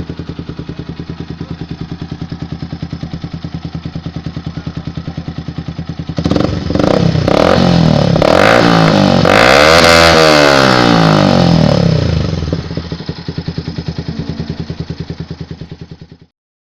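Yamaha Vixion single-cylinder motorcycle engine breathing through an aftermarket R9 racing exhaust: idling with an even pulsing beat, revved up and down hard for several seconds from about six seconds in, then dropping back to idle.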